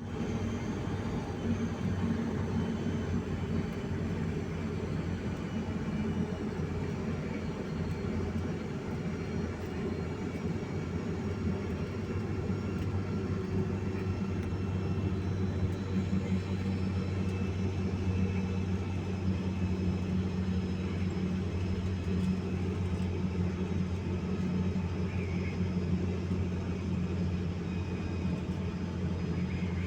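A steady low drone, like a vehicle's engine running.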